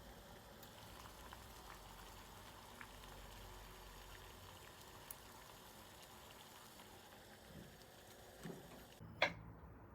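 Steady, quiet bubbling hiss of food cooking on the stove, with faint scattered crackles, broken near the end by a sharp click.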